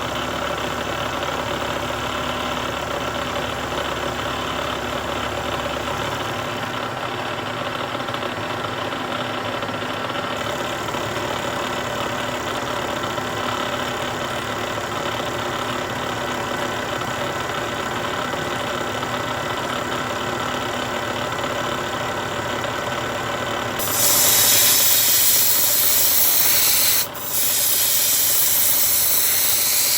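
Milling machine running with a 1/4-inch two-flute end mill cutting a slot in steel, a steady machine sound. About 24 seconds in, a much louder spraying hiss starts suddenly, cuts out briefly about three seconds later, then comes back.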